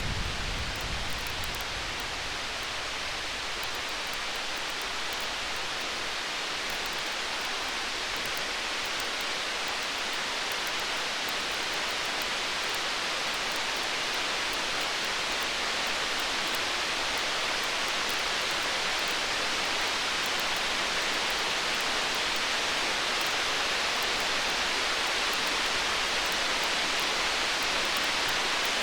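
Steady storm-night ambience: an even rain-like hiss that slowly swells, with the tail of a distant thunder rumble fading out in the first second and faint crackles of a wood fire over it.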